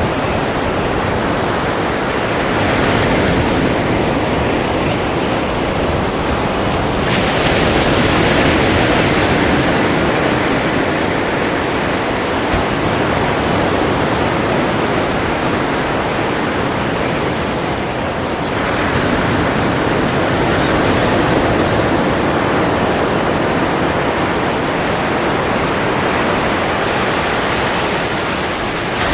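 Ocean surf: waves breaking and washing in without a pause, as a constant rush that swells with each new wave, at about two, seven and eighteen seconds in.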